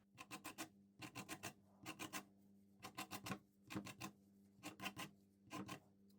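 Lemon being zested on a grater: quick rasping strokes in short runs of three to five, about one run a second.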